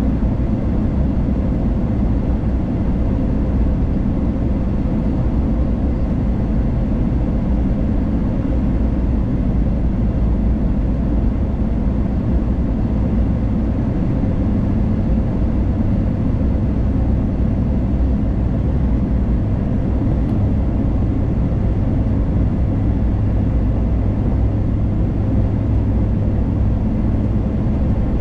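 Steady road and engine noise inside a moving car: a constant low drone with a faint hum.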